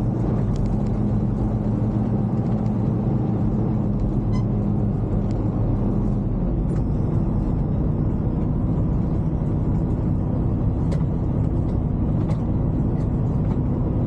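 Semi truck's diesel engine running steadily at low speed, heard from inside the cab as a continuous low drone.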